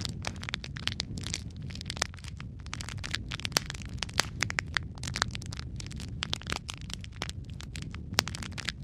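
Wood fire burning in a fireplace: logs crackling and popping with frequent sharp snaps over a low steady rumble of the flames.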